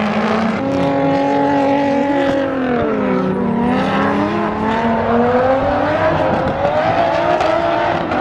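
A drift car's engine running under load, its pitch dipping about three seconds in and then climbing steadily as it revs up again, over rough tyre and road noise.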